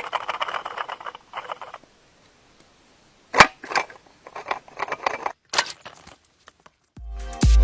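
A series of sharp clicks and light rattles in irregular clusters, with short silent gaps; one click about three seconds in is the loudest. Near the end, electronic dance music with a heavy thumping beat starts.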